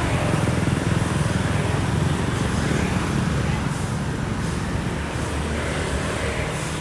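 Steady low rumble of road traffic, motor vehicles running.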